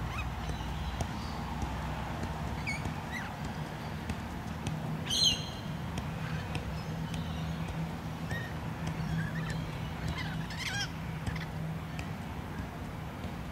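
Birds calling: a few short high calls, the loudest about five seconds in and another cluster near eleven seconds, over a steady low background hum.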